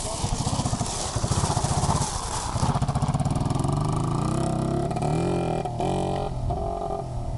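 Small dirt bike engine running as the bike is ridden, revving up with a rising pitch past the middle and easing off again near the end.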